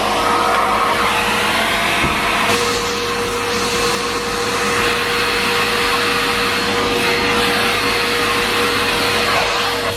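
Numatic Henry Pet cylinder vacuum cleaner running steadily: a rushing airflow with a steady mid-pitched whine.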